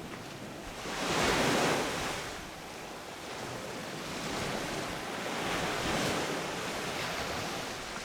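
Ocean waves breaking on a sandy beach: one wave crashes and washes in about a second in, and a second, longer swell of surf builds and fades through the middle and end, with a steady hiss of wash between.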